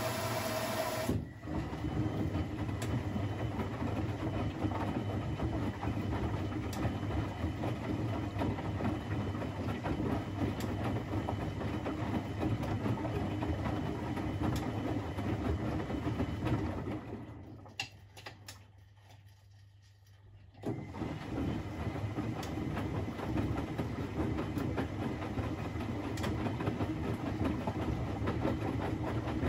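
Privileg 3001 S washing machine running, its gear motor turning the drum with a steady rumble. The sound changes abruptly about a second in, dies away for about three seconds past the middle as the drum stops, then starts again.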